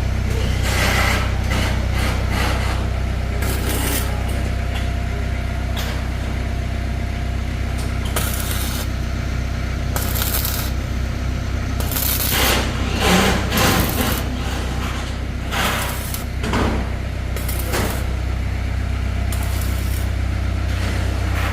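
A steady low mechanical hum, like an engine running, with scattered metallic clinks and scrapes of tools or parts being handled, busiest in the second half.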